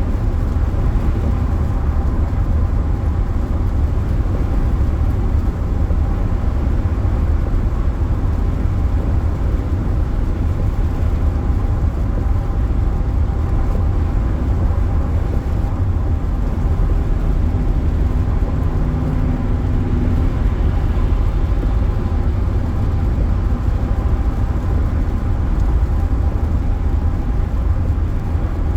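Steady road noise inside a moving car: a heavy low rumble with a faint steady hum above it.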